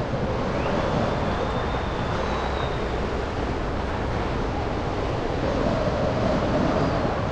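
Steady city traffic and road noise, heard while driving along snowy streets. A faint high whine rises about half a second in and holds briefly before fading out.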